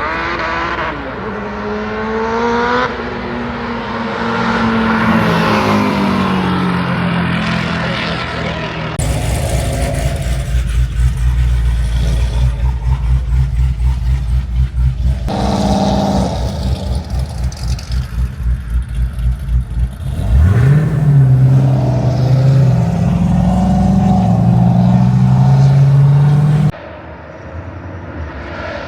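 Car engines revving and accelerating hard in street-racing runs, the engine pitch climbing repeatedly through gear changes. In the middle comes a stretch of loud rumbling that swells about three times a second. The sound breaks off abruptly several times, with a sharp drop near the end.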